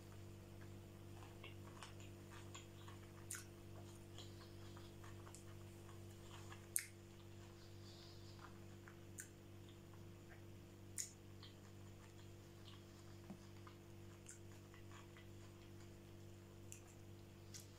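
Near silence with quiet chewing of sushi rolls: scattered soft mouth clicks and wet sounds, the loudest about seven seconds in, over a steady low hum.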